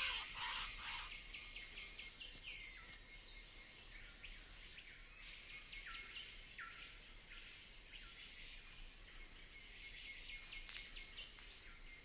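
Tropical forest background: a bird calling repeatedly with short notes that drop in pitch, about one a second, over faint high clicks and hiss.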